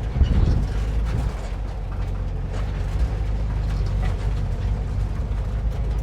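1950s VW Bus jolting along a rough, rocky dirt trail: a steady low rumble from the air-cooled flat-four engine and tyres, with a hard knock just after the start and many small rattles and clicks from the body and loose gear.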